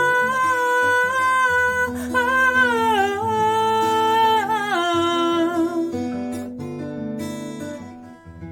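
A woman singing one long held note that steps down in pitch several times, over a strummed acoustic guitar. The voice stops about two-thirds of the way through, and the guitar plays on alone.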